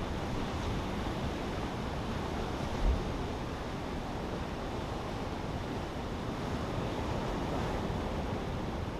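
Steady wind noise buffeting the microphone, a continuous low rush, with a single low thump about three seconds in.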